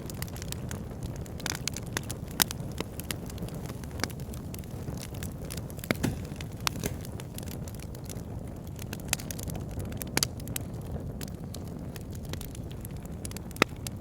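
Wood fire burning in a log burner: a steady low rumble of flames with irregular sharp crackles and pops of the burning logs, a few louder pops standing out.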